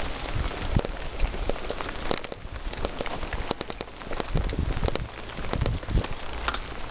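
Rain falling steadily, with many separate close drops striking throughout.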